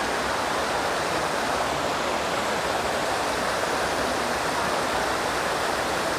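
Water from a rainforest stream running down a small cascade: a steady, even rush.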